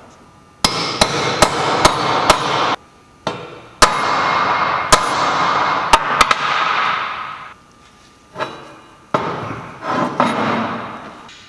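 A hammer drives the pinion bearing race home into a Jaguar Salisbury differential housing, over its pinion-depth shims. About ten sharp metal blows come at an uneven pace, each followed by ringing that runs into the next. A few softer knocks follow near the end.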